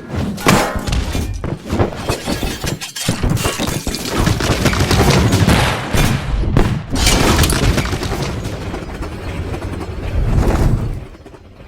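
Crash and explosion sound effects: a dense run of booms, smashing and shattering, with brief lulls about three and six and a half seconds in, dying away near the end.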